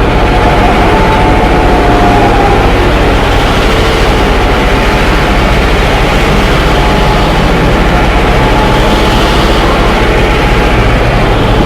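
Train running, with a steady low engine rumble under continuous rushing noise. A faint higher tone wavers over it in the first few seconds.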